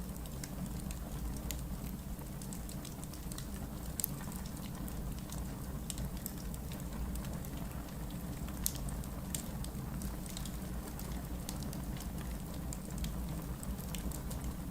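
Wood logs burning in a fireplace, crackling and popping with irregular sharp snaps over a steady low rush; the loudest pops come about four seconds in and again just before nine seconds.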